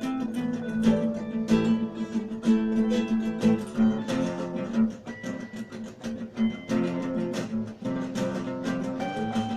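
Background music: acoustic guitar, plucked and strummed, with many quick notes.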